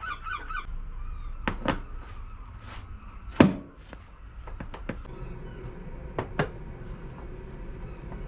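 Scattered clicks and knocks of motorbike parts and tools being handled and fitted, with one sharp knock about three and a half seconds in.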